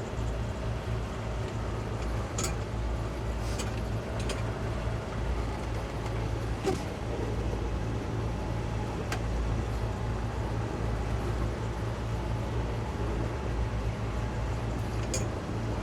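Towboat's twin Suzuki 200 hp outboard motors running steadily with a low, even rumble. A few faint clicks are heard along the way.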